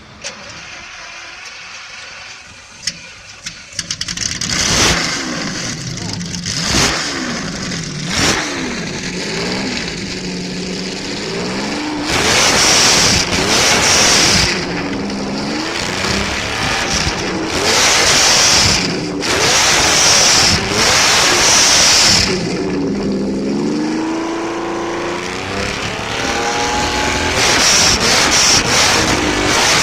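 Lamborghini supercar engine started about four seconds in, then revved again and again in sharp blips that rise and fall in pitch, dropping back to idle between them. The loudest revs come near the middle and at the end.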